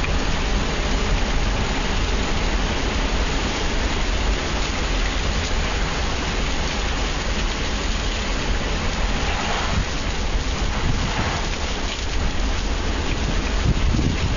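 Heavy hurricane rain with strong wind: a dense, steady hiss over a deep rumble of wind on the microphone.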